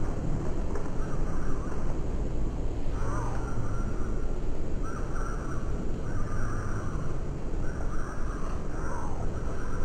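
Steady low outdoor rumble with harsh bird calls, like a crow cawing, repeating about once a second.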